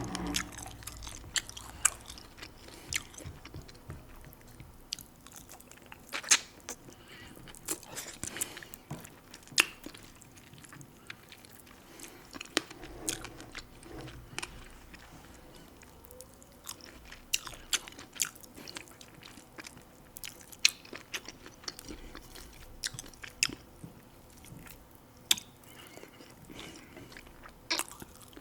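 Close-miked chewing, with irregular sharp wet mouth clicks and occasional crunches.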